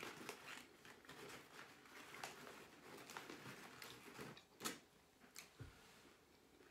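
Faint chewing of tortilla chips and cheesy corn dip, with a couple of sharper mouth clicks at about four and a half and five and a half seconds in.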